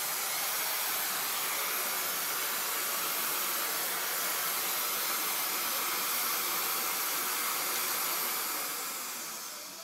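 Vacuum cleaner running with a steady whooshing hiss, then winding down near the end as it is switched off.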